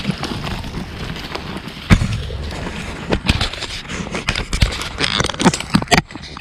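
Irregular crackling and knocking, with one sharp loud knock about two seconds in and a run of snaps near the end, over a steady rumble.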